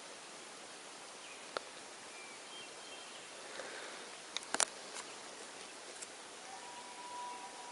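Quiet outdoor ambience on a calm lake: a faint steady hiss with a few small sharp clicks, a couple of faint high chirps, and a thin steady whine that begins near the end.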